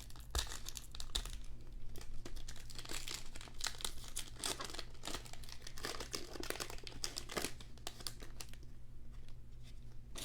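Plastic wrapper of a trading card pack crinkling and tearing as the pack is opened, an irregular run of crackles throughout.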